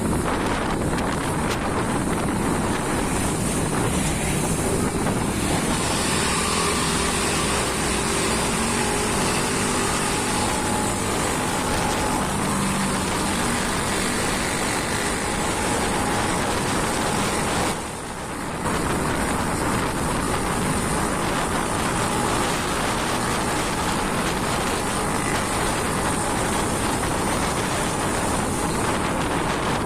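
Truck driving on the road: steady engine drone under a constant rush of tyre and wind noise, with faint shifts in engine pitch and a short drop in level about eighteen seconds in.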